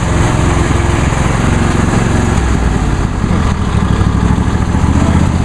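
A 2001 Huskee lawn tractor's 22 hp Briggs & Stratton Intek V-twin engine running steadily with a rapid low pulse as the tractor drives. It is still not running right, which the owner puts down to carburetor issues.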